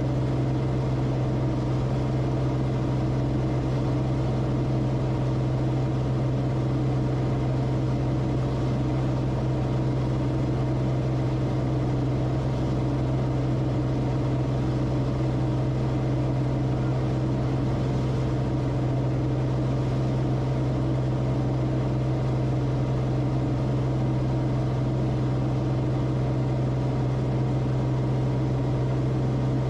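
Steady drone of the Cessna Corvalis TTX's turbocharged six-cylinder engine and propeller heard from inside the cockpit, holding one pitch with a strong low hum and no change in power.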